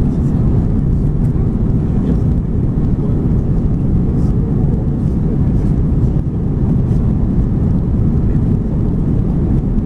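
Steady low rumble of engines and airflow heard inside the cabin of an Airbus A330-200 airliner.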